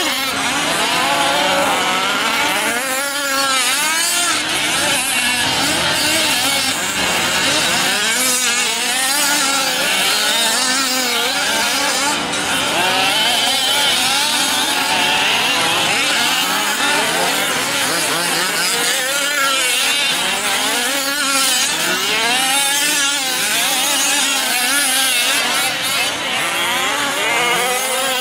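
Several 1/5-scale RC trucks' small two-stroke gasoline engines race together, their pitches overlapping as each one revs up and drops back over and over.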